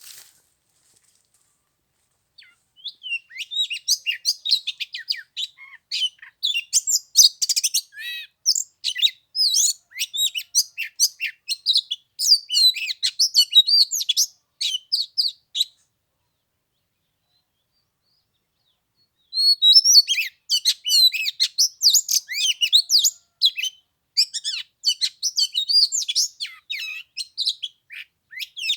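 Oriental magpie-robin singing a fast, varied song of high whistles and chirps, breaking off for a few seconds about halfway through before starting again.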